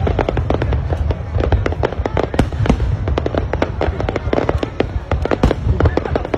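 Aerial fireworks going off: a dense, continuous run of sharp bangs and crackles, several a second, over a low rumble.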